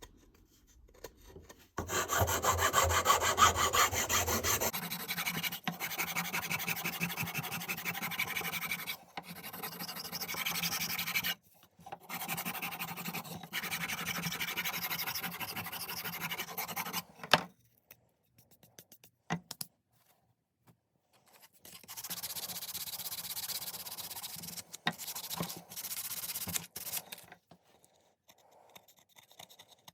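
Wooden hatchet handle being worked by hand with an abrasive, a run of quick, even rubbing strokes starting about two seconds in with a few short breaks, ending with a sharp tap. After a pause of a few seconds, a shorter run of the same strokes comes near the end.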